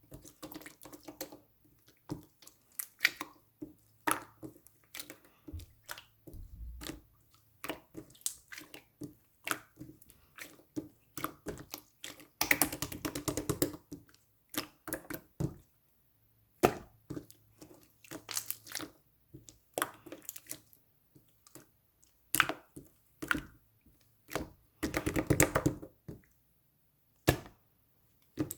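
Blue slime being squished and poked by hand, giving irregular sticky clicks and pops. Two longer runs of rapid crackling come about halfway through and near the end.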